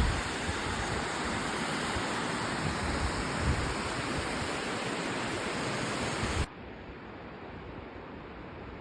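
Rushing water in a steady, even rush. About six and a half seconds in it drops suddenly to a quieter, duller rush.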